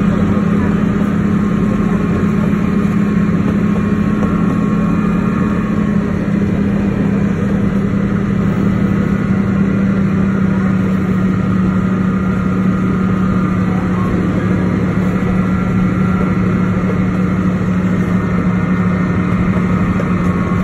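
Tourist train running steadily along its track, a constant engine drone heard from an open passenger carriage.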